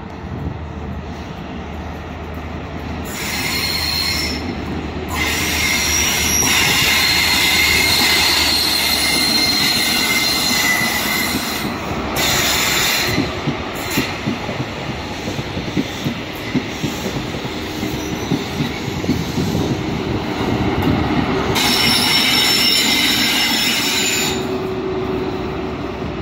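GWR High Speed Train with Class 43 diesel power cars running along curved station track: a low engine hum that fades out about a third of the way in, wheels clattering over rail joints, and high-pitched wheel flange squeal that comes and goes several times.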